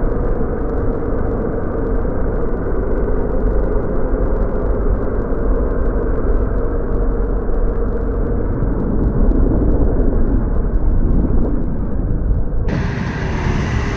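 Motorcycle engine running, with wind rumble on a helmet camera. The sound is muffled, with the treble cut, until about a second before the end, when the full sound returns.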